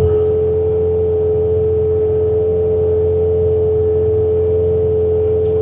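Bobcat T66 track loader's diesel engine running at full throttle, driving its snowblower attachment through deep snow: a steady low drone with a strong, constant high whine over it.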